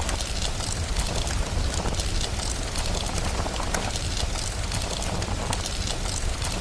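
Steady rain mixed with the scattered pops and crackles of a wood fire, over a continuous low rumble.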